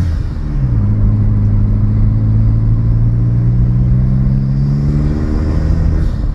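Car engine pulling under acceleration: the engine note dips briefly about half a second in, as at a gear change, then holds and climbs slowly as the car gathers speed, over a steady rush of road and wind noise.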